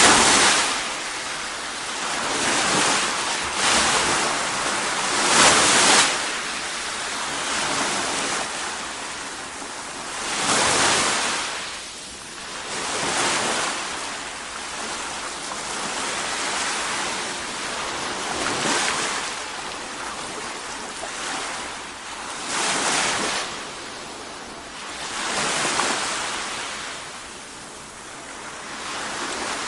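Ocean surf: waves breaking in surges every two to five seconds, with a steady wash of water between them.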